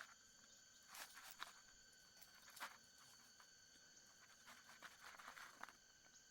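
Faint scattered rustles and soft clicks, a handful of them, with a longer rustle near the end, over a steady high-pitched drone.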